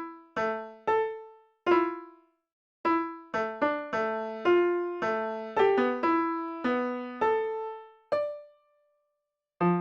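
Piano playing a slow, simple melody mostly one note at a time, each note struck and left to fade, with a short break about two seconds in and a longer one near the end.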